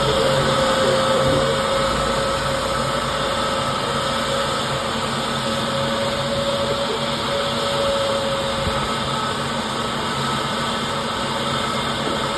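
Airbus A320 jet engines running steadily at idle: an even whine with a few steady tones over a broad rush of noise.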